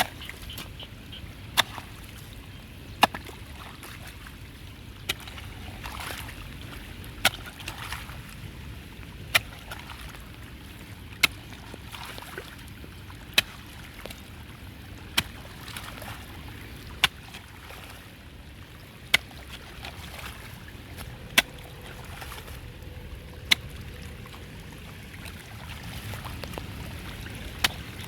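Water sloshing and trickling, with a sharp knock about every two seconds at a slightly uneven pace.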